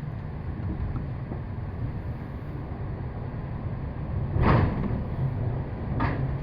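Cable car running on its track: a steady low rumble, with a louder knock about four and a half seconds in and a shorter one near the end.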